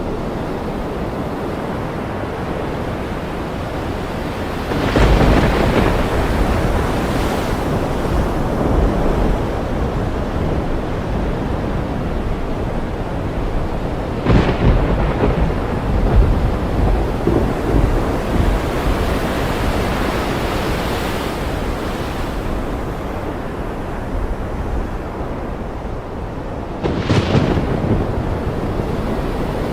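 Thunderstorm over ocean surf: a steady hiss of rain and waves with rolling thunder. Sudden loud claps of thunder come about five seconds in, near the middle and near the end, each rumbling away over a few seconds.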